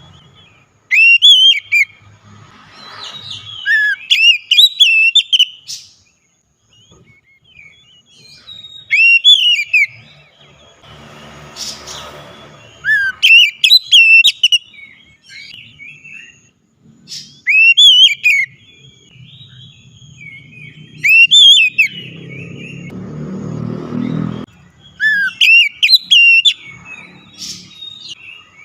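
Oriental magpie-robin singing loud whistled phrases, each a quick run of sweeping up-and-down notes, repeated in bursts every few seconds.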